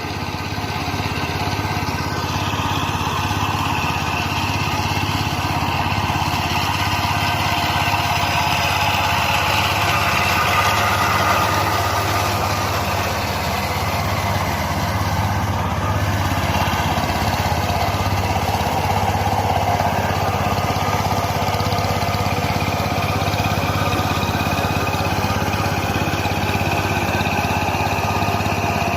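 An engine running steadily throughout, a constant low hum with higher tones that drift slowly up and down in pitch.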